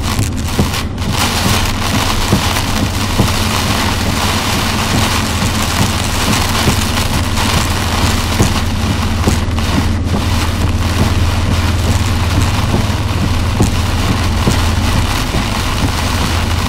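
Heavy rain hitting a moving car's windshield and roof, heard inside the cabin as a steady hiss over a low, even drone of engine and tyres on the flooded road.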